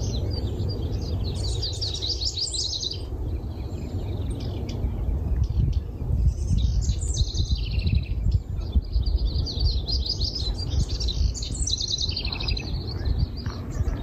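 Songbirds singing: several phrases of quick, high trilled notes, over a steady low rumble.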